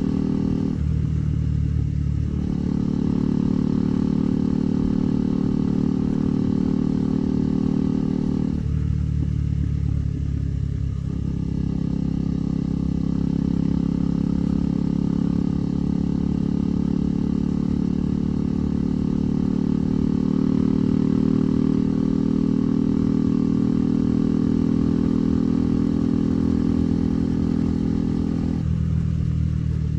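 KTM 390 Adventure's single-cylinder engine running as the motorcycle rides along, with a steady note that changes briefly about a second in, around ten seconds in and near the end.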